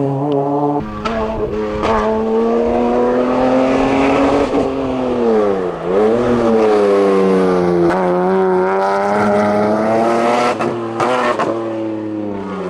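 Race car engine running hard up a hillclimb: the revs climb, drop sharply and briefly about six seconds in, then climb again. There are short breaks in the engine note about a second in, about two seconds in and again near eleven seconds in.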